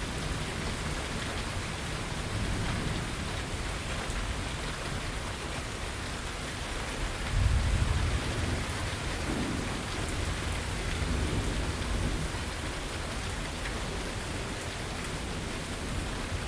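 Steady rain falling, with low thunder rumbling underneath; a louder roll of thunder comes about halfway through.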